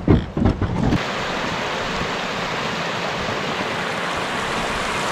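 A few low knocks in the first second, then a steady, even rush of flowing creek water.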